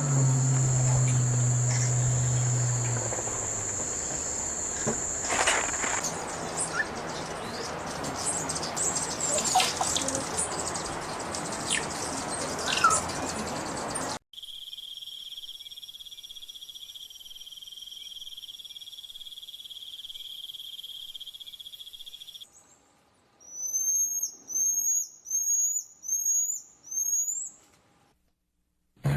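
Forest wildlife sounds in several cut-together pieces: first a steady high trill, then rustling with scattered clicks, then a steady insect chorus of high continuous tones. Near the end a bird gives five rising chirps about a second apart, followed by a short silence.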